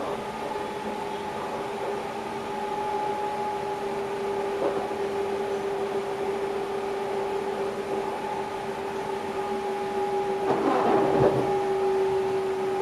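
Electric passenger train running, heard from the driver's cab: a steady whine from the traction equipment over the running noise, with a brief clatter about five seconds in and a louder one a little before the end, as of wheels passing over rail joints or points.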